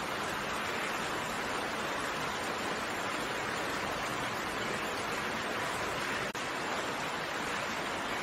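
Steady rain, an even hiss with no separate drops or other sounds standing out. There is a brief dip in level about six seconds in.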